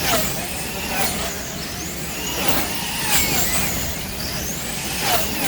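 Electric wing-class slot cars running laps: several small motors whine, their pitch rising and falling again and again as the cars accelerate down the straights and brake into the turns, with the odd sharp click.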